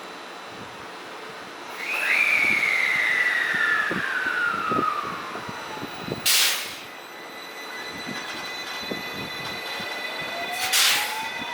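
JR West 223 series electric train: its motor whine falls steadily in pitch as it slows, with wheel clatter underneath. A sharp hiss of air comes twice, and a rising whine starts late on.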